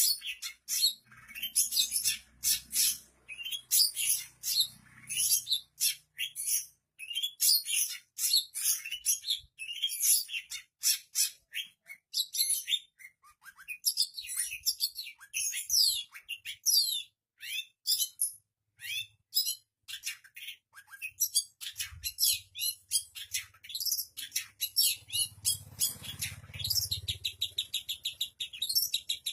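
Long-tailed shrike (pentet) singing continuously: a fast, varied stream of short high chirps, slurred whistles and harsher notes, full of the imitations of other birds that this mimic works into its song, with a rapid trill near the end.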